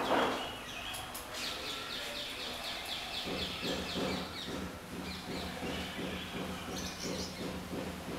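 A small bird gives a rapid run of high chirps for about two seconds, over steady outdoor background noise. A faint low rhythmic pulsing follows.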